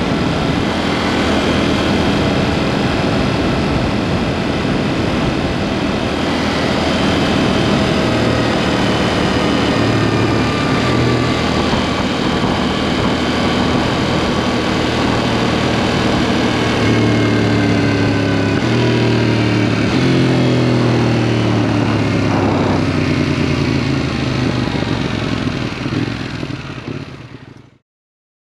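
KTM Duke 790's parallel-twin engine, heard through its aftermarket SpeedPro Cobra SPX exhaust while riding, its note rising and falling in steps with throttle and gear changes over steady road and wind noise. The sound fades out near the end.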